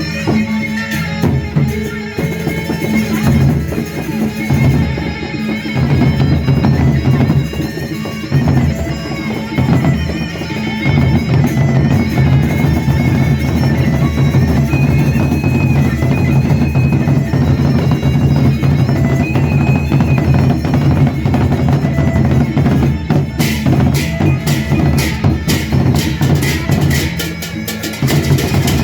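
Traditional Indonesian drum-and-percussion ensemble playing an instrumental tabuh (opening piece), with drums carrying a steady driving beat. From about two-thirds of the way through, a run of rapid sharp strokes rides over the drums.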